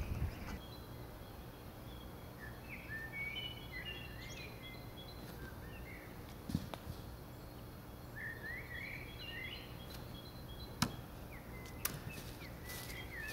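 Small songbirds chirping in short phrases in a leafless wood, with a few sharp knocks, the loudest a little before the end.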